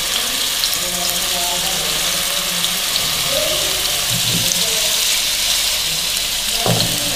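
Marinated chicken skewers frying in about a tablespoon of oil in a non-stick pan: a steady sizzle dotted with small crackles as the chicken browns. A short knock comes near the end.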